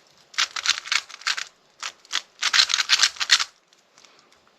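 Speed cube being turned quickly by hand: rapid runs of plastic clicking turns, two bursts of about a second each, with a couple of single turns between them.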